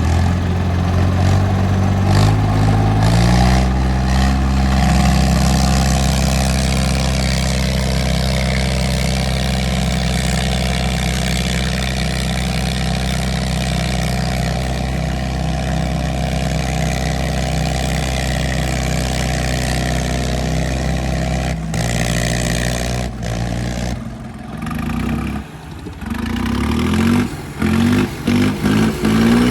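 Diesel tractor engines running hard under heavy pulling load in a tractor tug-of-war. The pitch climbs about two seconds in and then holds at high revs, with a shift in pitch past two-thirds of the way through and an uneven, fluttering sound near the end.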